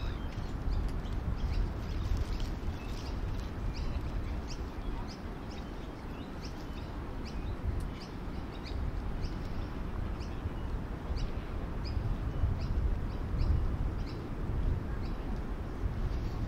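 Small birds chirping: short, high chirps repeated every second or so through the whole stretch, over a constant low rumble that is the loudest part of the sound.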